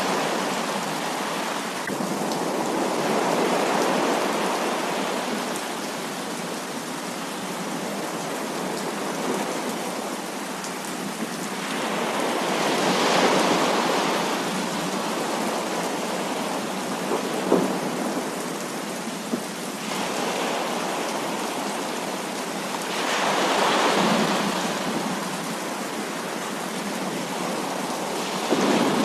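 Heavy rain falling steadily, with thunder rumbles that swell and fade about three times. A couple of brief sharp snaps come a little past halfway.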